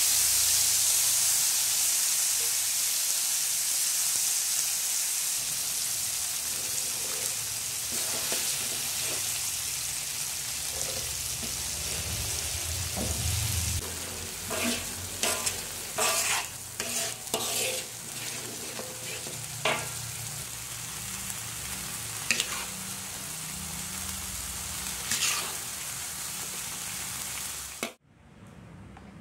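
Sambal terasi chili paste frying in hot oil in a wok, sizzling loudly at first with the hiss slowly dying down. From about halfway, a metal spatula scrapes and clacks against the wok as the paste is stirred. The frying cuts off abruptly near the end.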